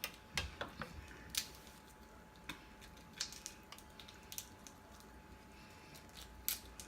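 Irregular small clicks and snaps of seafood being eaten by hand: shells and utensils handled, about a dozen sharp ticks spread unevenly.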